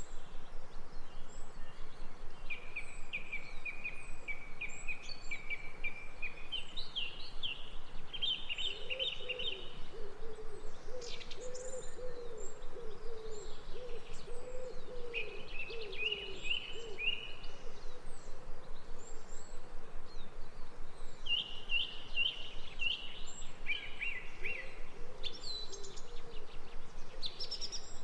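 Songbirds singing repeated high trilled phrases, with a lower, wavering call repeating through the middle of the stretch and again near the end, over a steady background hiss.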